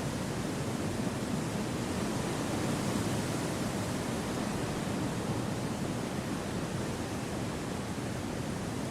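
Wind blowing steadily through forest trees: an even, unbroken rush, fuller in the low range, with no distinct gusts.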